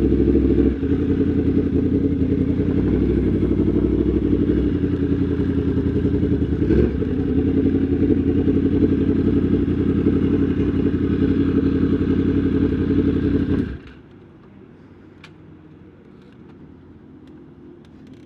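Yamaha MT-10 SP's crossplane inline-four engine running steadily, then switched off about fourteen seconds in, leaving a quiet background with a few faint clicks.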